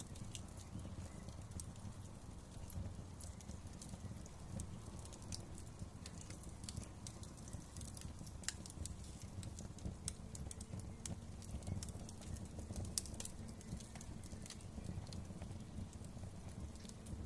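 Wood fire crackling: irregular sharp pops and snaps over a low, steady rumble of the burning flames.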